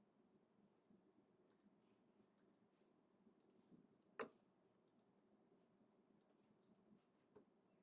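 Near silence with faint scattered clicks, and one sharper click about four seconds in.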